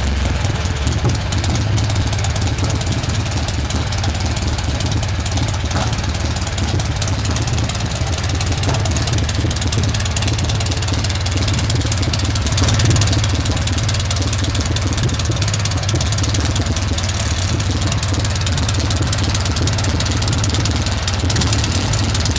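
Old engine running steadily after its start, with a deep, even low rumble.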